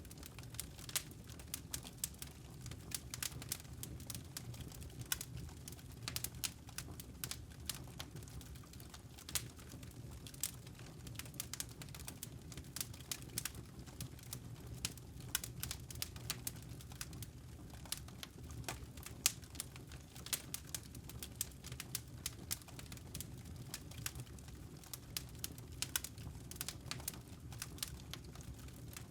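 Wood campfire crackling: dense, irregular sharp pops and snaps of burning logs over a steady low rumble of the flames.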